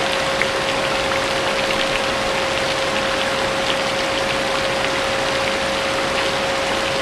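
Vacuum cleaner running steadily with a constant whine, mixed with rain falling and the scattered ticks of individual drops.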